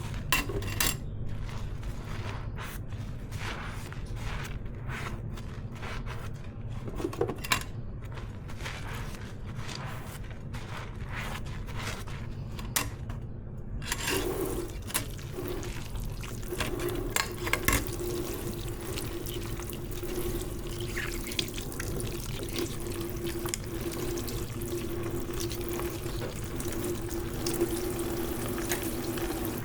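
Hand-washing dishes at a kitchen sink: a few clinks and knocks of dishes, then about halfway through the tap is turned on and water runs steadily into the sink, with a steady hum under the running water.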